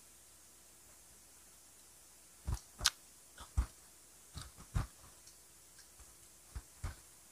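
Close-miked biting and chewing of grilled Filipino street-food skewers: after a quiet start, a string of irregular sharp mouth clicks begins about two and a half seconds in.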